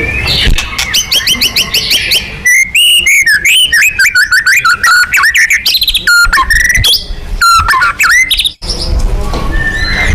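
White-rumped shama (murai batu) singing. It opens with a fast run of repeated sharp notes, then moves into a long string of varied, sliding whistled phrases.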